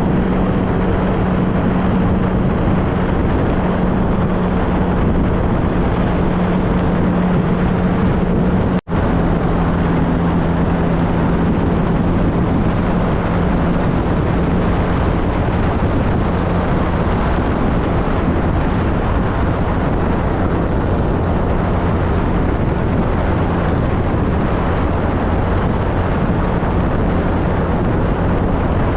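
Three-cylinder engine of a 2013 Triumph Trophy SE motorcycle running at a steady cruising speed, its even note under a heavy rush of wind and road noise. The sound cuts out for an instant about nine seconds in, then carries on at a slightly lower pitch.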